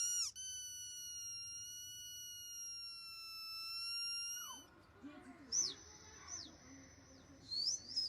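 A high, steady squeaky tone lasting about four and a half seconds that dips in pitch and cuts off, then quieter short high squeaks that sweep up and down, with soft whine-like sounds beneath them.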